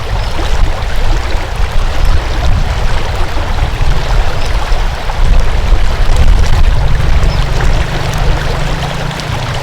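Water flowing steadily: a continuous rushing hiss over a heavy low rumble.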